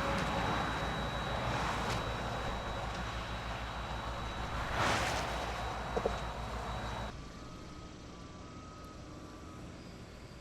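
Heavy vehicle engines running with a steady low rumble, with a louder passing surge about five seconds in. About seven seconds in the sound drops suddenly to a quieter, distant rumble.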